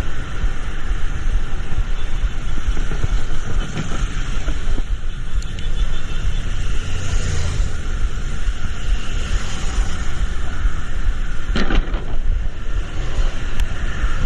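Steady rushing noise of rain and road traffic, with a heavy low rumble and a brief sharper noise about three-quarters of the way through.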